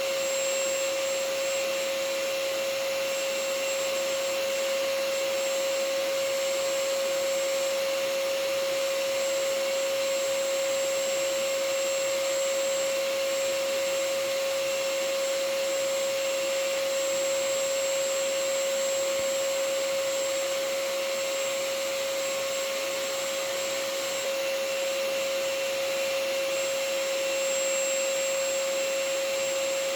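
Vacuum cleaner running steadily: an even motor whine with a constant hiss of rushing air.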